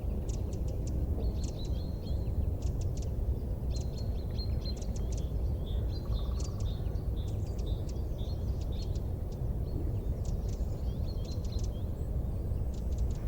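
Small birds chirping and twittering in quick clusters of short high notes, over a steady low rumbling noise.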